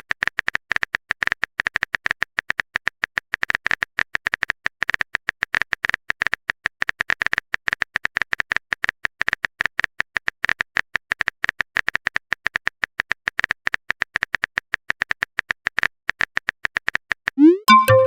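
A typing sound effect of rapid, evenly repeated short clicks, several a second, each with a bright ticking tone. Near the end it stops and gives way to a short rising blip and a few chime notes, like a message-alert sound.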